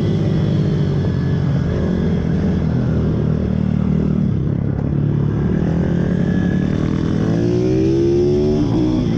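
Pit bike engines running, with one bike revving up in a rising tone near the end, then dropping off just before the end.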